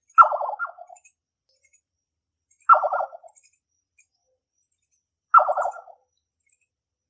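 A nightjar calling: a short call, a sharp first note dropping into a quick run of stuttering lower notes, given three times at even intervals of about two and a half seconds.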